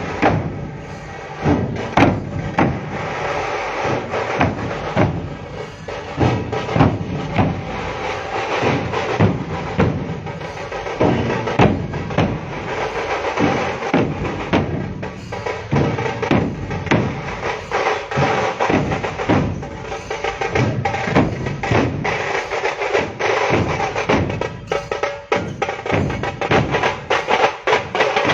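Percussion music: drums beaten in a driving, steady rhythm, with the strokes coming faster and denser near the end.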